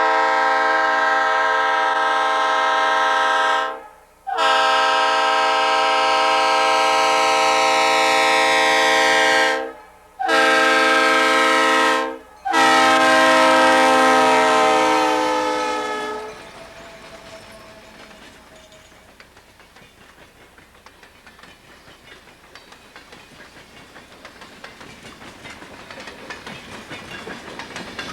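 Locomotive air horn sounding the grade-crossing signal: two long blasts, a short one, then a final long one that ends about 16 seconds in. After it, the train's wheels rumble and click over the rail joints, growing louder toward the end.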